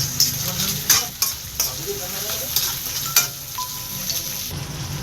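Food sizzling in a hot pan while being stirred, with a utensil clicking against the pan several times.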